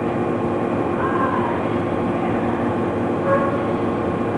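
Steady rushing air and hum of a CNC laser cutting machine's air and vacuum system running, with two brief whines, about a second in and just after three seconds.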